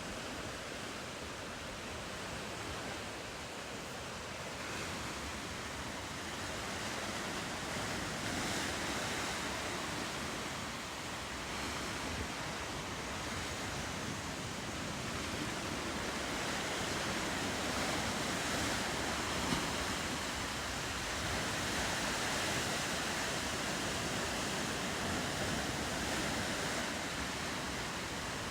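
Ocean surf washing against the coast, a steady rushing hiss that swells and eases slowly.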